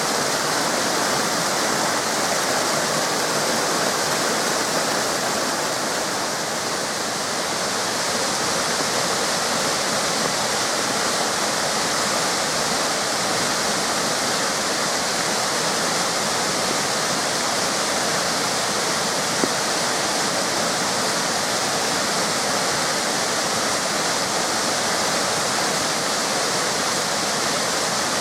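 Waterfall cascades pouring steadily, a dense, even rush of falling water.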